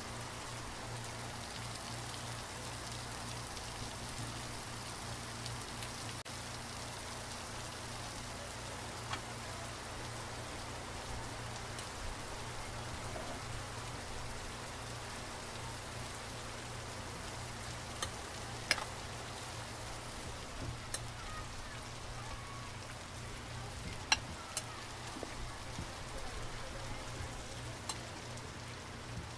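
Steady hiss of rain over a low hum, with a few sharp clinks of a metal fork against a glass bowl in the second half as raw beef strips are mixed.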